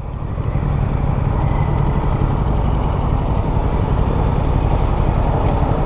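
Motorcycle engine running steadily at riding speed, with wind rushing past.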